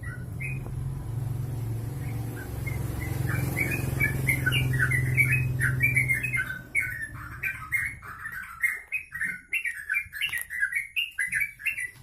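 A kept songbird singing a fast, continuous run of short chirps that starts about three seconds in. A steady low hum sounds under the first half and stops about six and a half seconds in.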